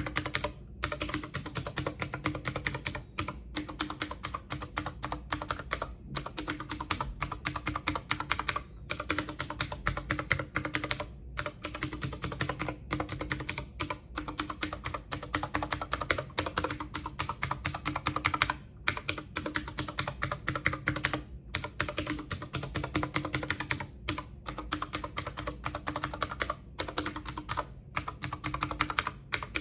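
Rapid typing on a computer keyboard: a quick, irregular run of key clicks that stops for brief moments every second or two.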